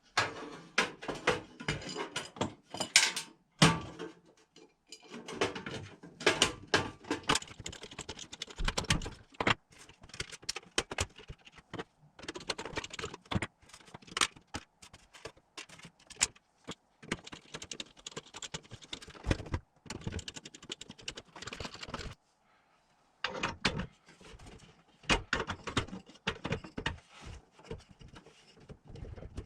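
Small metal parts and tools being handled, with irregular clicking, clinking and rattling and a few brief pauses.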